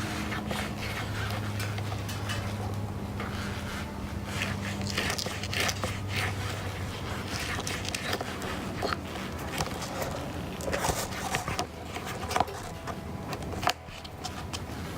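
Scraping, rustling and scattered clicks as a hand-held hole cutter is worked through a rubber floor mat. A low steady hum runs under the first five seconds or so.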